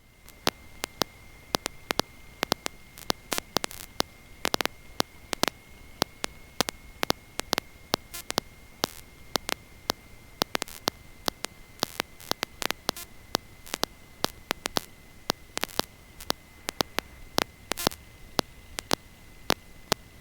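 Electrical static on a dropped-out audio line: irregular sharp clicks and crackles over a faint hiss and a steady thin high whine, with no engine sound.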